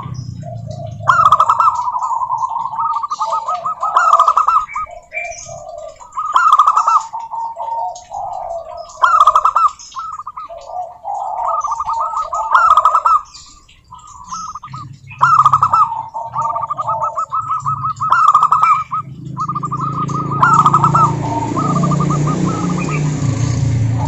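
Zebra dove (perkutut) singing: short, rapid trilling coo phrases repeated every two to three seconds. A low hum sits beneath the song in the second half.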